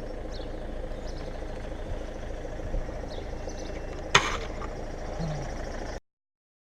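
Steady low rumble with faint high chirps, broken about four seconds in by a single sharp bang or knock; the sound cuts off abruptly near the end.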